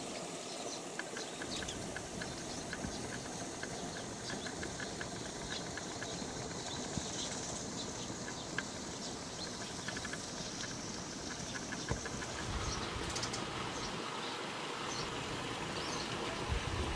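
Small birds chirping in short repeated calls over a steady rushing noise.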